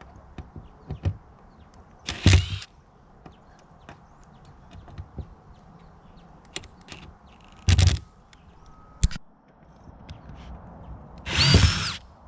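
Building work on a plywood-and-tire jump: three short loud bursts of about half a second each, a sharp knock a little after the middle, and scattered light clicks and taps between them.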